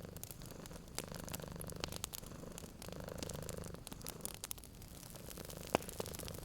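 Domestic cat purring steadily in a low, even rumble, with wood-fire crackles and pops scattered over it, one sharper pop near the end.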